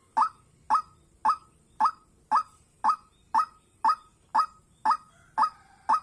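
White-breasted waterhen (dahuk) calling: one short, sharp note repeated evenly, about twice a second.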